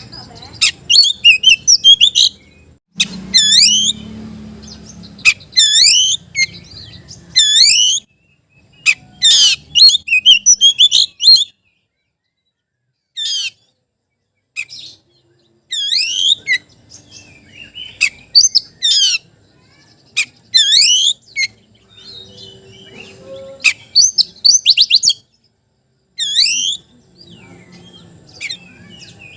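Oriental magpie-robin singing loud whistled phrases of quick, sweeping high notes, broken by short pauses. This is the challenging song a male uses to call out a rival.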